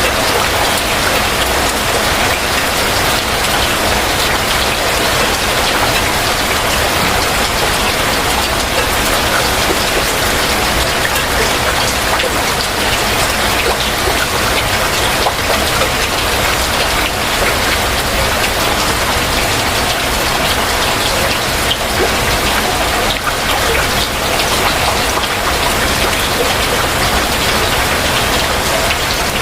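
Heavy rain falling steadily, a dense hiss of drops on surfaces.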